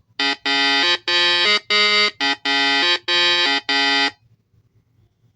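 Vehicle horn honking in a rapid series of about seven buzzy blasts over four seconds, then stopping.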